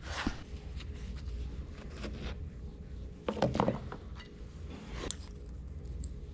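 Scattered light clicks and taps of small parts being handled at the workbench, over a low steady hum, with a brief murmur about three and a half seconds in.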